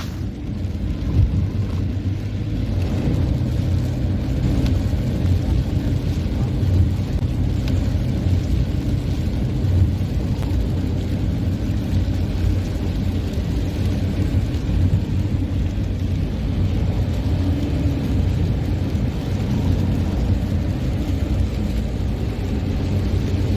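Car driving on a wet road: a steady low rumble of road and tyre noise.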